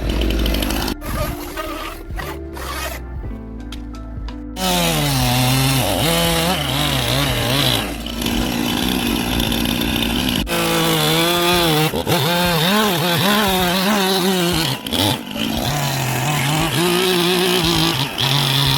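A chainsaw cutting into wood in short, abruptly cut snippets for the first few seconds. Then background music with a wavering melodic line takes over for the rest.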